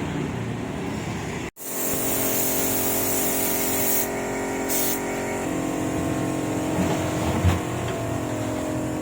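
A steady machine hum with several pitched tones. About a second and a half in, a loud hiss of compressed air starts and runs for over two seconds, and a shorter burst of hiss follows about a second later.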